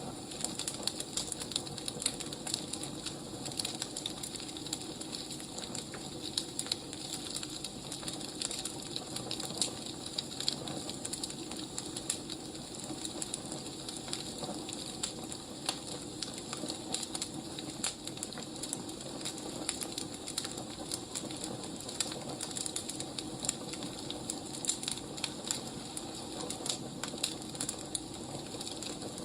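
Wood fire crackling, with frequent irregular small pops and snaps over a steady low hiss.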